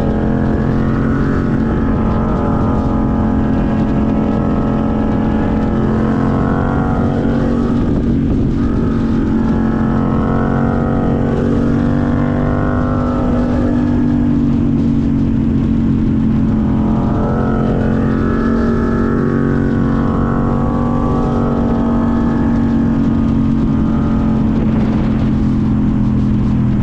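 Honda CBR600RR inline-four engine running while riding, holding a steady, loud note with only slight rises and falls in revs.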